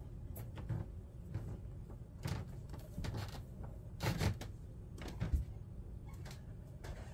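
Pen or marker drawing on paper: a run of short, irregular scratchy strokes, with a longer, louder stroke about four seconds in.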